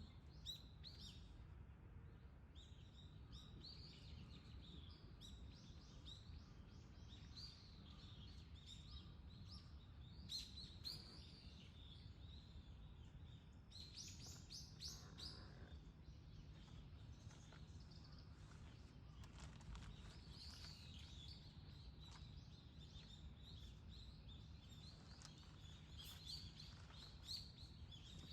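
Small birds chirping faintly and repeatedly in short calls over a low, steady rumble of background noise.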